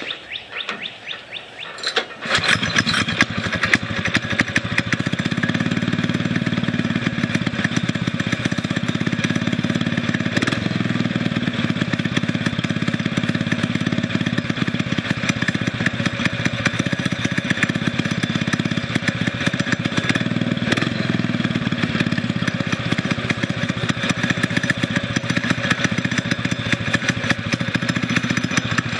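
Single-cylinder Predator 6.5 hp engine on a homemade mini bike starting about two seconds in, then running steadily through a new custom exhaust with a small aftermarket muffler.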